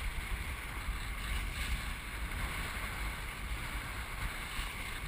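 Wind buffeting the microphone aboard a Melges 24 sailboat under way, a fluctuating low rumble over a steady hiss of wind and water.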